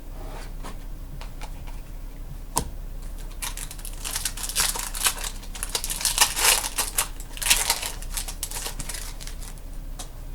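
A trading-card pack's foil wrapper crinkling as it is torn open and handled, a run of dense crackling from about three and a half seconds in to about nine seconds, after a single sharp click.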